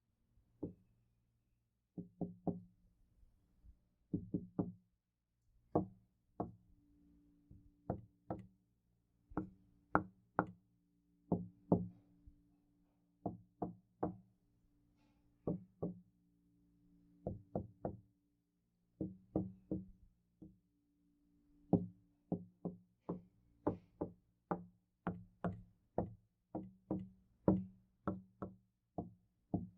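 Knocking on a door in quick groups of two to four knocks, a group every second or two, growing denser and more regular in the last third.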